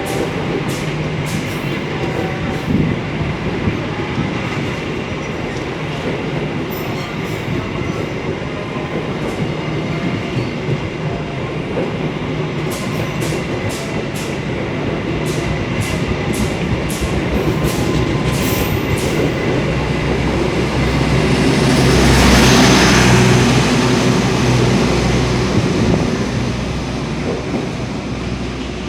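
Taksaka express passenger train passing straight through a station without stopping: a steady rolling rumble with repeated sharp clicks of wheels over rail joints. The sound swells to its loudest, with a deep low rumble, a little past twenty seconds in.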